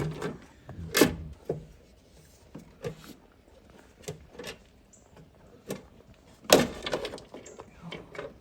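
Hand work on a secondary air injection pump and its bracket in a car's engine bay: scattered clicks, knocks and rubs of parts and wiring being handled and fitted, with two sharper knocks, about a second in and near the middle.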